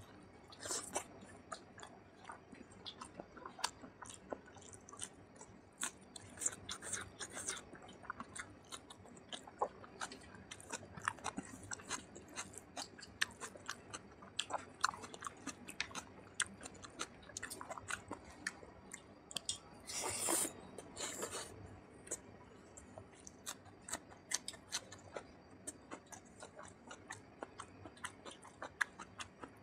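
Close-miked wet chewing and mouth smacks of a person eating rice and oily mutton curry by hand, a steady run of small clicks. Two louder rushing noises come about a second apart roughly two-thirds of the way through.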